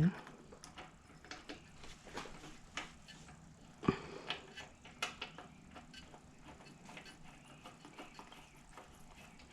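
Scattered small metallic clicks and light knocks from reassembling a push mower's carburetor and fitting it back onto the engine, with a sharper knock about four seconds in.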